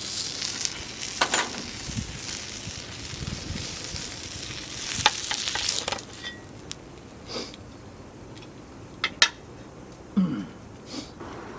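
Gyoza frying in a pan, sizzling strongly for about six seconds before the sizzle drops away. A few sharp clicks and knocks follow in the second half.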